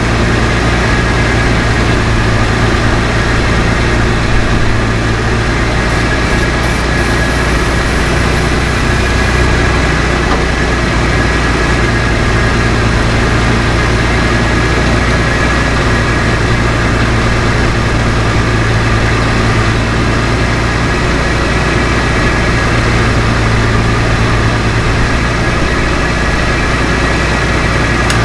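Chevy S10 pickup's engine idling steadily, run to test a freshly refitted A/C compressor pulley.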